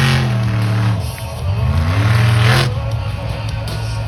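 Monster truck engines revving hard: the pitch sinks back in the first second, then climbs in a sharp rev about two seconds in, over loud music from the public-address system.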